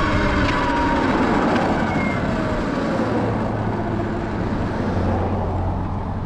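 Segway X160 electric dirt bike being ridden: the electric motor's whine falls in pitch over the first few seconds as the bike slows, over a steady rush of road and wind noise.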